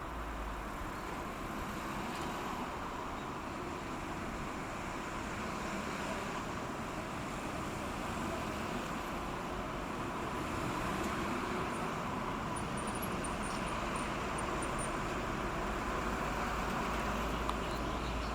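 Cargo ship passing close by, its engine a steady low rumble under a broad rushing noise that slowly grows louder.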